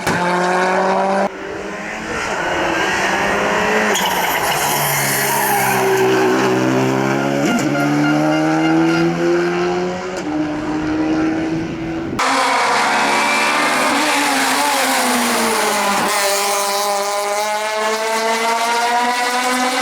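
Competition cars at full throttle on a hillclimb, their engines revving up and shifting gears, with the pitch dropping at each shift and under braking. The sound cuts abruptly to a different car twice.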